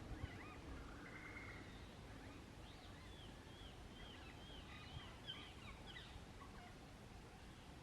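Faint bird chirps: a quick run of short, repeated high calls in the middle, over a low outdoor background hiss.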